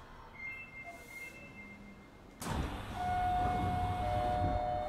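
Kita-Osaka Kyuko 9000 series train standing at a station. It is quiet at first; about halfway in, a sudden loud low rumble starts, and a steady hum sets in with it and holds.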